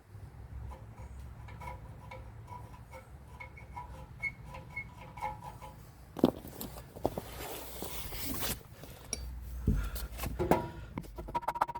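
Hand work on metal car parts: light metallic clinks at first, then a run of sharp knocks and clicks of tools against metal from about halfway through.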